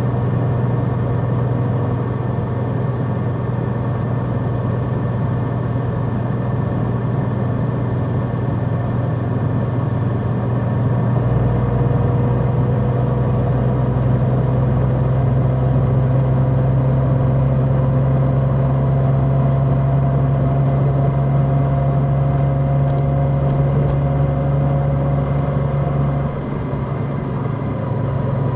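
Large motorcycle's engine running at a steady speed while riding, a constant engine hum with wind noise, easing briefly about 26 seconds in.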